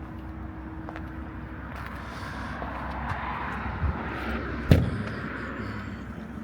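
Outdoor traffic noise, with a vehicle passing that swells and fades across the middle, and one sharp knock a little after the middle.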